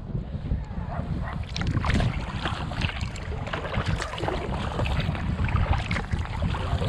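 Wind buffeting the microphone with a steady low rumble, over repeated short splashes and drips of water from a kayak paddle.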